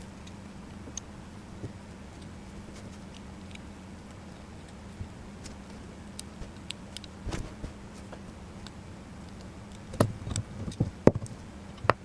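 Small metal construction-kit parts being handled and fitted: scattered light clicks and ticks, with a run of louder knocks near the end, over a steady low hum.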